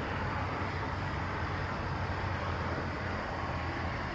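Steady low rumble under an even outdoor background hiss, unchanging throughout.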